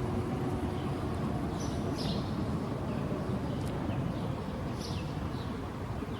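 A steady low rumble with a few short, high bird chirps, two near the start and two more about five seconds in.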